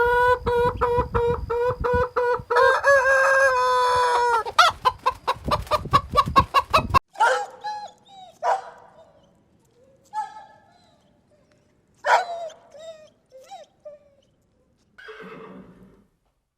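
Chickens calling: a long, pulsing crow-like call lasting about four seconds, then a quick run of cackles, then scattered single clucks that fade toward the end.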